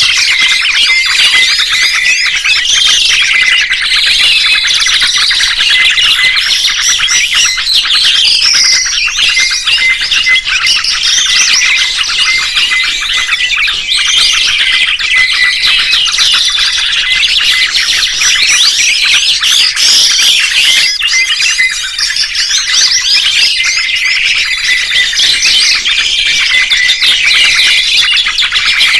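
Dense chorus of many songbirds chirping and trilling at once, high-pitched and unbroken.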